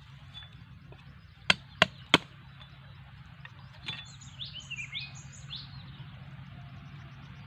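Three sharp knocks about a third of a second apart, a tool striking bamboo, then a bird chirping a few quick gliding notes, over a low steady hum.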